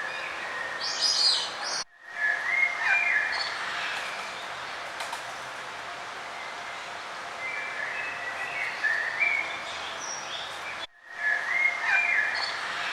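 Several songbirds chirping and trilling over a steady outdoor hiss. The sound cuts out abruptly for a moment about two seconds in and again near eleven seconds, where the looped recording is spliced.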